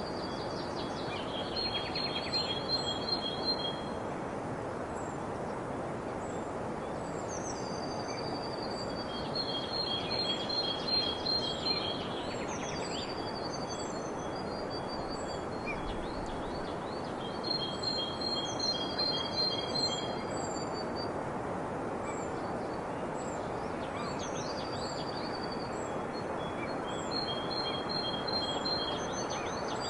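Several songbirds singing over a steady, even background hiss. Phrases of quick, evenly repeated notes come back about every eight seconds, with thin, high falling whistles in between.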